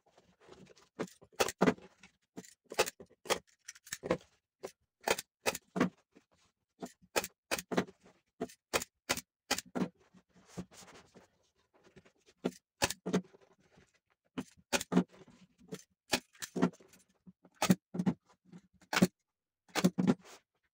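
Irregular sharp knocks and clicks of hand work in a small room, many in quick pairs or short clusters with short pauses between.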